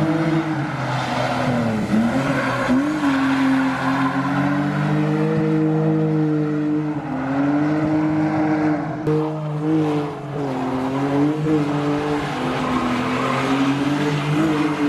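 Car engine held at high revs, its pitch rising and dipping as the throttle is worked, with tyres squealing underneath: a car drifting.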